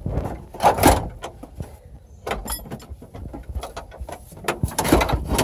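Knocks, clicks and clatter of a GMC truck's dashboard being pried and pulled apart by hand, with the louder bangs about a second in and near the end.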